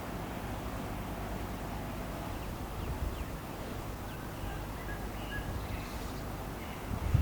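Woodland ambience: a steady low rumble with faint, short, high bird chirps in the second half. A louder low sound starts right at the end.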